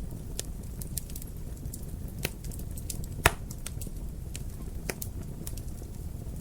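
Wood fire crackling in a fireplace: a steady low rumble with scattered sharp pops and snaps, the loudest a little past three seconds in.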